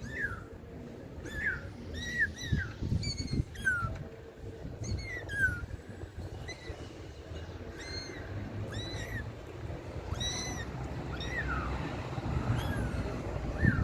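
Kittens mewing over and over: short, high-pitched calls, some falling and some rising and falling, about one or two a second.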